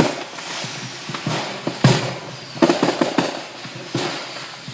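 Fireworks from a burning firework stand going off: an irregular string of sharp bangs and crackles, with the loudest bangs about two seconds in and just before three seconds.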